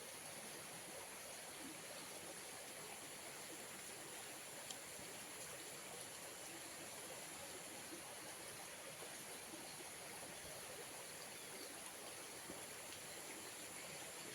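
Faint steady outdoor ambience: an even rushing noise with a thin, steady high-pitched tone above it.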